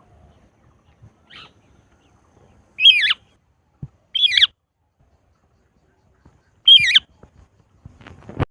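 Indian ringneck parakeet giving three loud, short, harsh squawks, with a fainter call before them. A few soft knocks come in between, and a louder one near the end.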